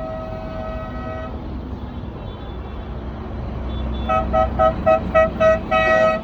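Vehicle horn on a passing tractor: one note held for about a second, then a quick run of about six short toots ending in a longer one, over a low engine rumble.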